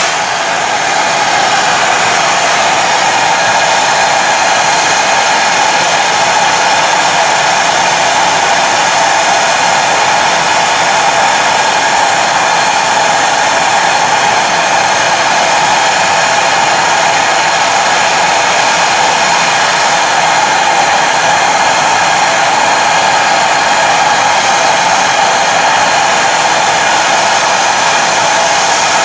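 Gas torch burning with a steady, unbroken roaring hiss, strongest in a band near 1 kHz, as it heats a wire basket of steel wheel nuts toward blue heat before they are quenched in oil to blacken them.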